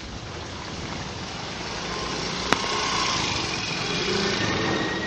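Street traffic: a motor vehicle's engine running and growing louder as it comes nearer, over a steady hiss, with one sharp click about halfway through.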